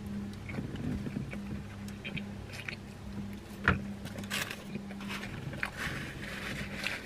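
Close-up chewing of a mouthful of sandwich, with scattered small clicks and a sharp click a little before four seconds in, and the paper wrapper crinkling around four to five seconds in. A steady low hum runs underneath inside the car cabin.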